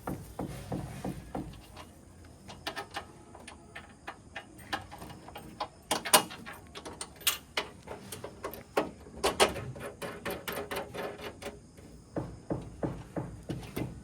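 A series of irregular knocks and clatter, with the loudest strikes falling in the middle stretch.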